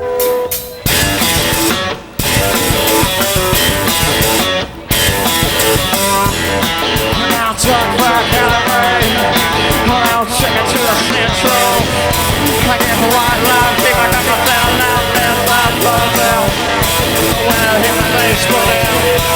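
Live rock band playing the song's instrumental intro, with short stops about one, two and five seconds in before the full band plays on without a break.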